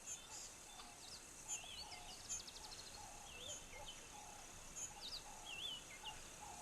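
Faint outdoor ambience of birds calling, short whistled phrases that rise and fall, repeated every second or so, over a light hiss with small high ticks.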